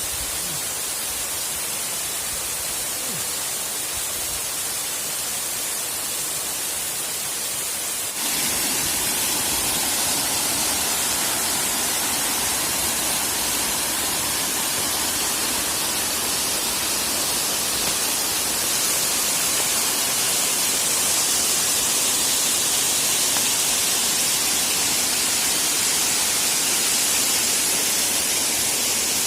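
Waterfall: a steady rush of falling water that gets louder about eight seconds in and stays there.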